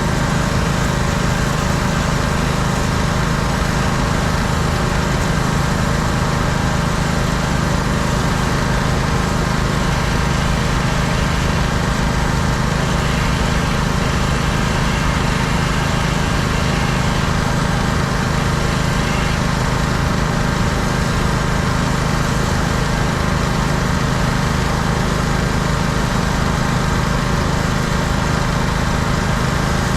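Pressure washer's small petrol engine running steadily at constant speed, with a steady hiss over its hum.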